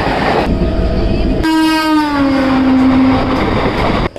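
A train running past with a loud, steady rumble. About one and a half seconds in, its horn sounds for about two seconds and drops in pitch as it goes by. The sound cuts off suddenly just before the end.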